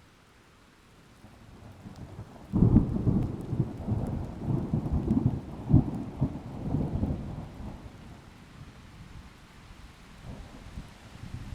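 Thunder rolling over faint rain: a low rumble builds, breaks loudly about two and a half seconds in, and rolls on in several peaks for about five seconds before dying back to a softer rumble.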